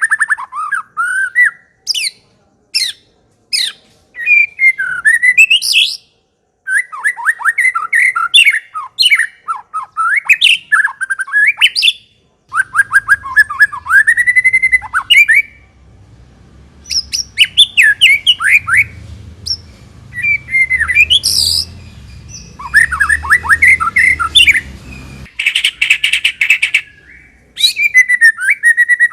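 White-rumped shama (murai batu) singing: bursts of rapid, sweeping whistled trills and chattering phrases separated by sharp clicking notes, with a harsh rasping burst near the end. A faint low hum underlies the middle of the song.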